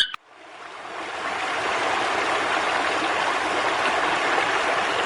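Steady rush of running water, fading in over about the first second and a half and then holding even.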